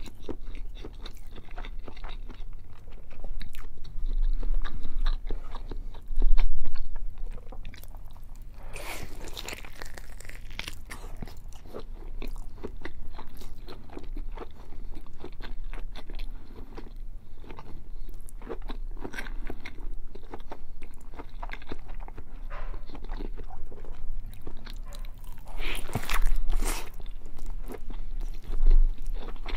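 Close-miked eating of a big slab of bacon: steady chewing and biting throughout. There are louder bites about nine seconds in and again near the end, and low thumps around five seconds in.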